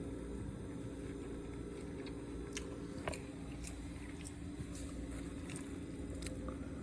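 A person biting into and chewing a freshly fried corn dog, with scattered crisp crunches from the batter crust over a steady low hum.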